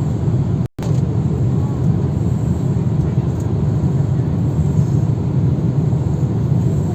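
Airliner cabin noise in flight: a steady low rumble of engines and airflow, which cuts out for an instant less than a second in.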